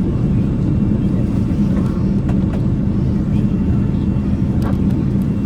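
Steady low rumble of a Boeing 787-8 airliner heard from the passenger cabin, with a constant hum near 200 Hz and a few faint clicks.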